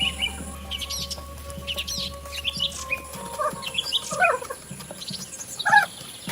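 Several birds chirping in short, scattered calls and quick trills.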